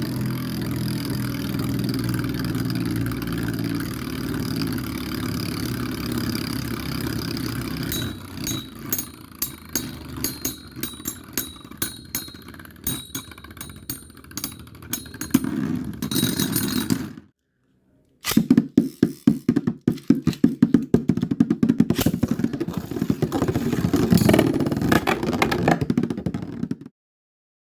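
Metal Fight Beyblade tops Dark Capricorne 105RF and Storm Aquario M145Q spinning and clashing: a steady whirring hum, then rapid clattering hits from about eight seconds in. The sound cuts off suddenly for about a second, then another run of whirring and clattering hits stops abruptly shortly before the end.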